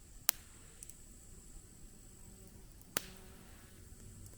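Quiet background with two sharp clicks, about two and a half seconds apart.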